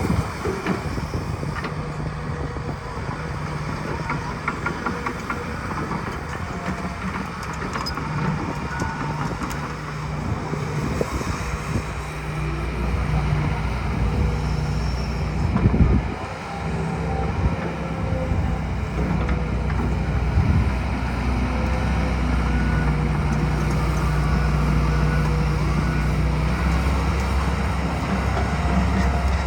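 Hitachi ZX210LC-7 excavator's diesel engine running steadily, growing slightly louder in the second half, with a single loud knock about halfway through.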